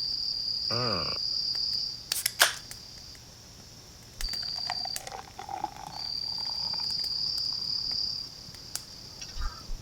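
Crickets trilling in a steady high-pitched band that breaks off and resumes twice. About a second in, a short wavering pitched cry sounds, and just after two seconds a sharp crack, the loudest sound, cuts in.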